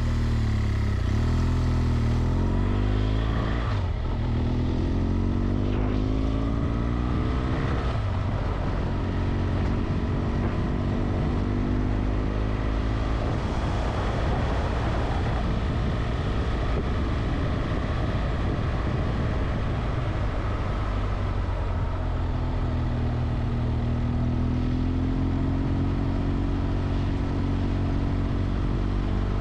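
Motorcycle engine heard from the rider's seat while riding: it climbs in pitch under acceleration a few times in the first eight seconds, as through gear changes, runs steadily through the middle, and climbs again near the end.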